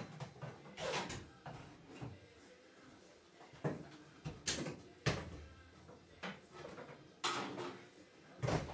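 Irregular knocks, clunks and short scrapes of hand work on car body and interior parts, about eight separate sounds, the loudest about halfway through and near the end.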